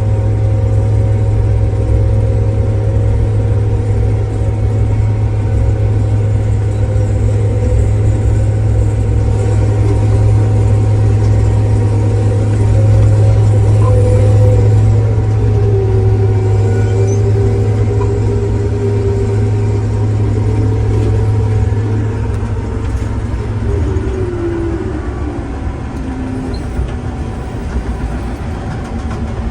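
Diesel engine of heavy harvest machinery running steadily, with a strong low hum and several steady whines; one whine slides down in pitch over the second half.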